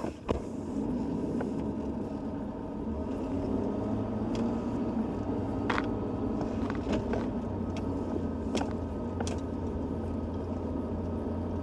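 Pickup truck driving at a steady pace, its engine drone and road noise running evenly, with a few scattered sharp ticks.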